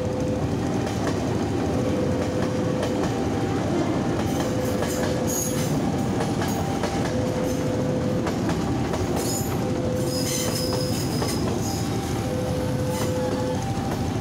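KRL Commuter Line electric train passing close by: a steady rumble of wheels on rail, with brief high wheel squeals about five and ten seconds in. Under it the level-crossing warning siren keeps alternating between two tones, each held for a little over a second.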